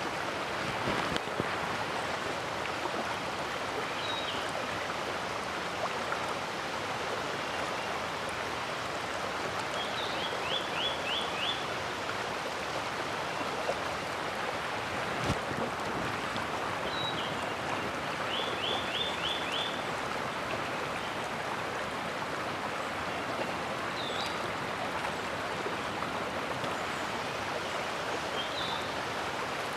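Mountain stream rushing steadily. A bird calls briefly every six or seven seconds and twice gives a quick series of about five notes. A single sharp knock comes about halfway through.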